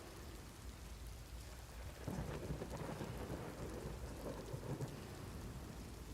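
Thunderstorm ambience: steady rain falling, with a roll of thunder that builds about two seconds in and rumbles on for about three seconds before easing off.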